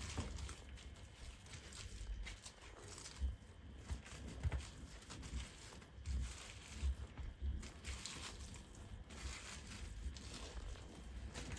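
Raw chicken thigh pieces being mixed with pepper and salt: faint, irregular wet handling noises with soft low thumps and scattered small clicks.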